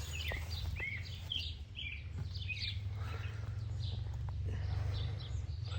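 Birds chirping and calling in short, scattered notes, some sliding briefly in pitch, over a steady low hum.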